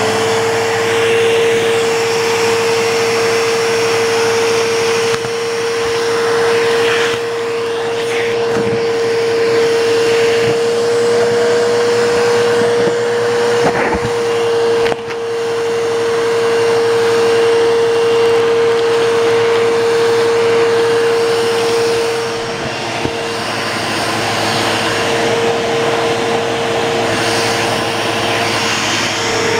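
Bissell vacuum cleaner's quarter-horsepower direct-drive motor running with a steady high whine over a loud rush of air, sucking up debris through the hose extension.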